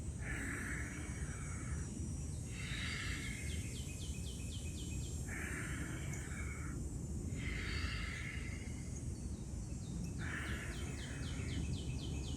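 Outdoor ambience with a steady low rumble, a handful of short hissing sounds about a second long, and twice a rapid ticking trill of about eight ticks a second.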